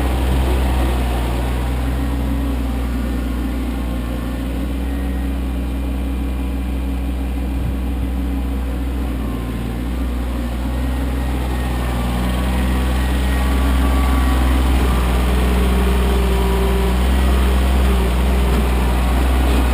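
Kioti CK25 compact tractor's diesel engine running steadily while working, getting somewhat louder about two-thirds of the way through.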